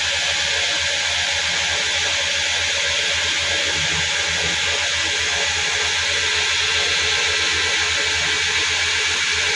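Steady hiss over a low, even hum, unchanging throughout, as from workshop machinery running.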